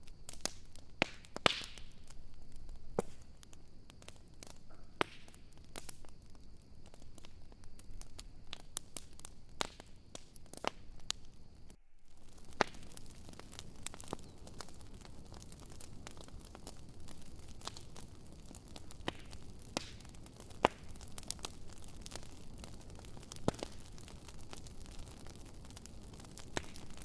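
Wood fire in a fire pit crackling, with irregular sharp pops and snaps of varying loudness over a low steady hiss. The sound drops out for a moment about twelve seconds in.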